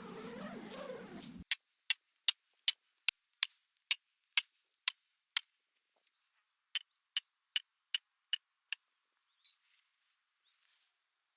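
Insect chirping: sharp, high, evenly spaced chirps about two and a half a second, a run of about ten, a pause of over a second, then six more. A muffled, wavering sound before them cuts off about a second and a half in.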